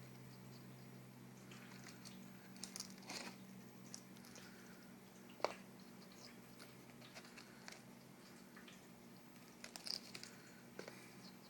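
Eclectus parrot's beak biting and pecking at a raw egg: scattered faint clicks and crunches of beak on eggshell. There is a small cluster about three seconds in, the sharpest single click about five seconds in, and another cluster near ten seconds.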